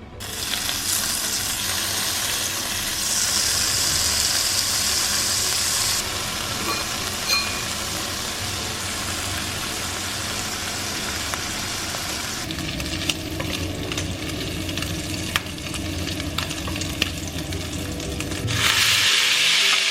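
Bacon sizzling as it fries in a pan, with a few small clicks of a utensil. The sizzle shifts abruptly in level several times.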